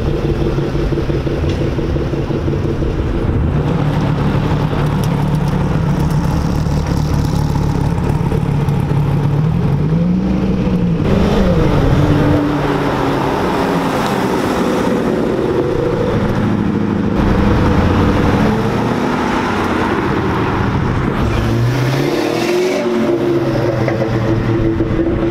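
Loud performance-car engines accelerating past one after another: a steady exhaust rumble, then revs that swell and fall about halfway through and climb again near the end.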